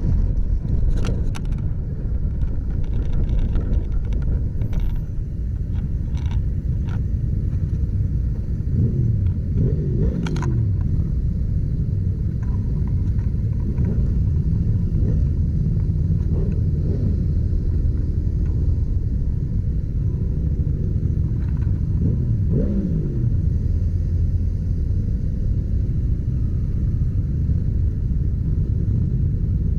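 Motorcycle under way: a steady, low engine and road rumble, with the pitch falling twice, about a third of the way in and again about three quarters through.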